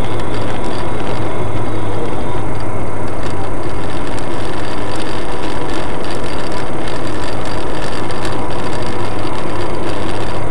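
Steady car engine and road noise with a low hum, holding at an even level throughout.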